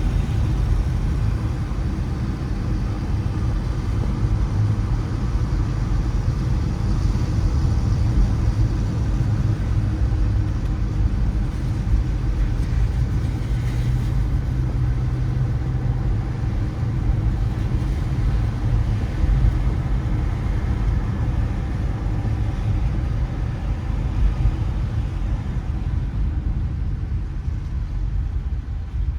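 Car driving on wet city roads: a steady low rumble of engine and road noise, with the hiss of tyres on wet pavement.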